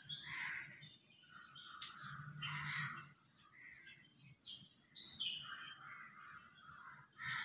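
Birds chirping and calling in short repeated bursts, some calls sliding down in pitch. Two sharp clicks cut through, about two seconds in and near the end.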